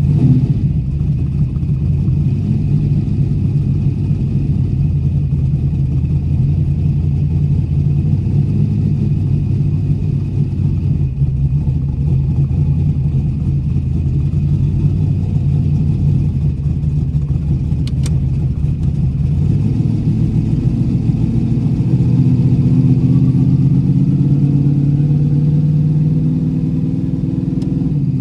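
Chrysler Imperial's 318 small-block Mopar V8 running steadily as the car is driven, heard from inside the cabin. About twenty seconds in the engine note steps up and rises gently.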